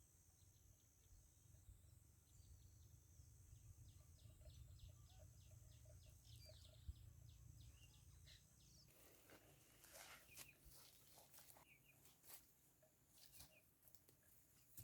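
Faint rural outdoor ambience: a bird chirping over and over, about three short calls a second, then a spell of scattered clicks and rustles near the end.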